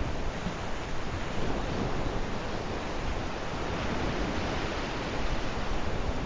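Sea waves washing on the shore: a steady, even rush of surf with no separate breaks standing out.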